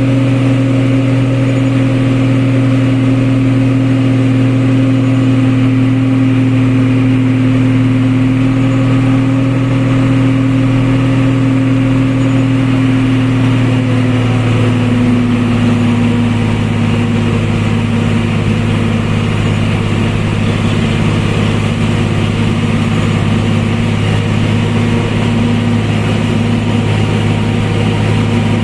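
A vehicle engine running steadily, its pitch dropping slightly about halfway through.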